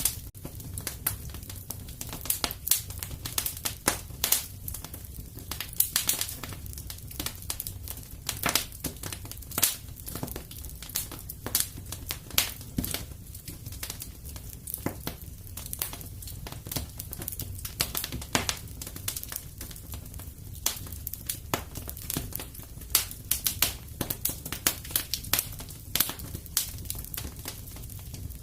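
Wood fire crackling in a fireplace: a steady stream of irregular sharp pops and snaps over a low rumble of the flames.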